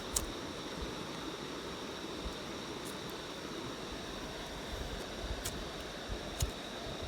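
Campfire crackling: a few sharp pops scattered over a steady rushing background.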